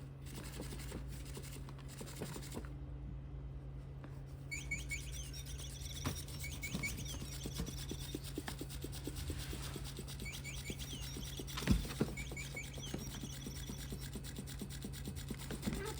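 Electronic cat toy bird chirping: two runs of repeated identical high chirps, about five seconds in and again about ten seconds in. Light scratching and rubbing runs underneath, with a single thump near twelve seconds.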